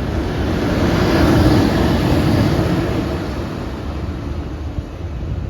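A single locomotive running light past the platform: a rail rumble that swells to a peak about a second and a half in, then slowly fades as it moves away.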